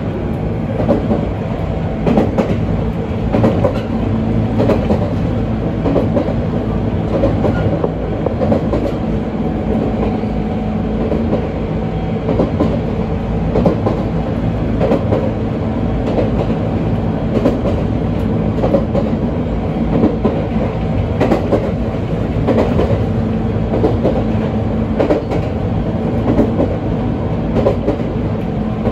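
Echigo Tokimeki Railway ET127-series electric train running along the line, heard from inside the car. A steady rumble and hum, with the wheels clicking over rail joints every second or two.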